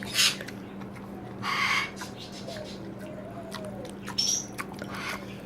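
Pet birds calling in short bursts: a harsh squawk about a second and a half in, then a short high rising chirp near the end, over a steady low hum.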